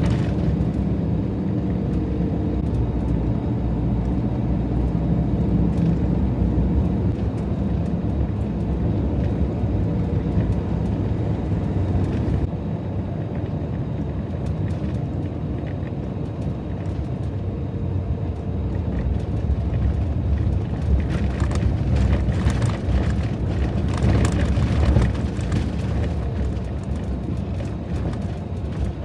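Fiat Ducato van driving: a steady low engine and road rumble that drops slightly in loudness about 12 seconds in, with a few seconds of clicking and crackling about two-thirds of the way through.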